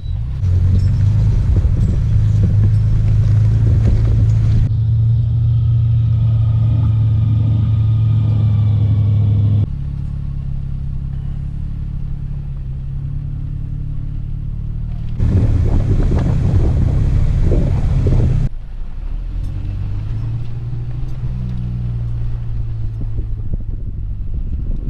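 Off-road truck engine running at low revs while crawling a rocky trail, across several cut-together shots. Wind buffets the microphone in two louder stretches, about half a second in and again around fifteen seconds in.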